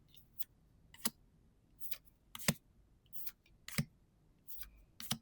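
Trading cards being slid off a stack one at a time, each a soft swish followed by a sharp snap, about once a second.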